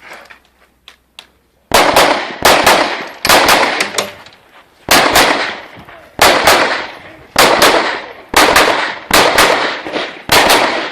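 Rapid pistol fire from an Open-division competition pistol: about fifteen loud shots, mostly in quick pairs (double-taps), starting about two seconds in, each with a short ringing echo.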